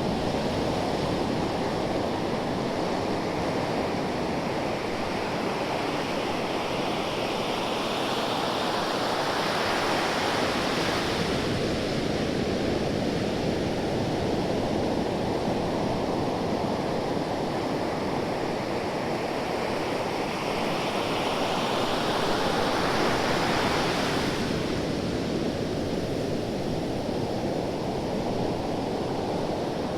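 Ocean waves breaking: a continuous hiss of surf that swells twice, as one wave breaks about a third of the way in and another about three quarters of the way in.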